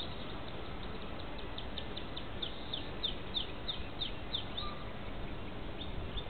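A bird singing a series of about a dozen short, high, downward-slurred notes, roughly three a second, growing louder through the series.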